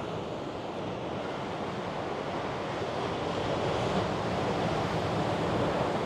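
Ocean surf breaking and washing against a rocky coastline, a steady rushing wash that swells a little in the second half, with some wind buffeting the microphone.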